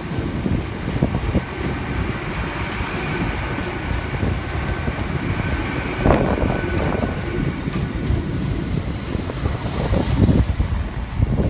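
LNER Class 800 Azuma train running past over jointed track and pointwork, a steady rumble of wheels and bogies with irregular knocks and clatters, heaviest about halfway through and again near the end, and a faint steady whine above it.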